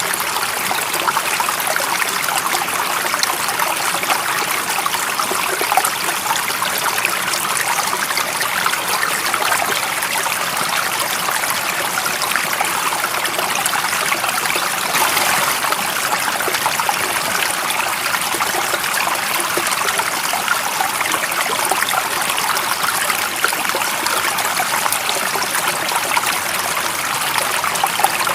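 A stream of water running steadily, a continuous even rush with a trickling, splashing texture and no breaks.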